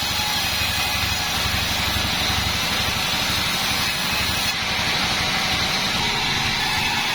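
Homemade band sawmill running steadily: a constant low rumble with a broad hiss above it. The highest part of the hiss drops away a little past halfway.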